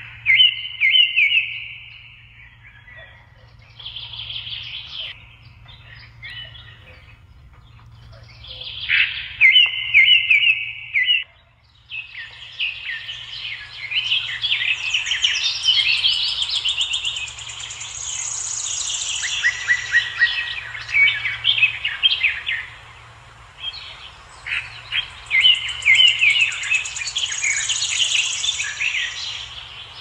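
Birds chirping and singing, with short trilled phrases at first and then many overlapping calls and songs almost without a break. A steady low hum runs underneath.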